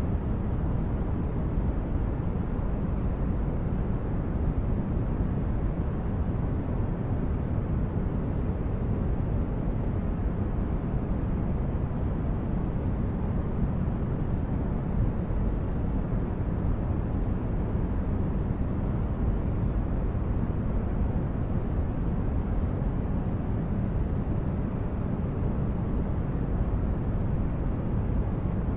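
Sci-fi starship ambience: a steady, deep rumbling brown-noise hum, even throughout with no distinct events.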